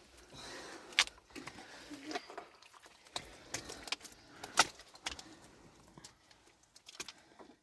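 Irregular sharp clinks and knocks, a handful spread unevenly, as of small hard objects being handled.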